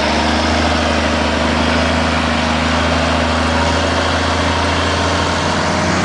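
Big diesel truck engine running at low revs, its note rising slightly about two seconds in, then settling.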